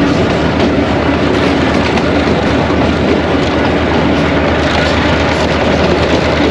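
Passenger train running at speed, heard from aboard a coach: a loud, steady rumble and rattle of the wheels on the track.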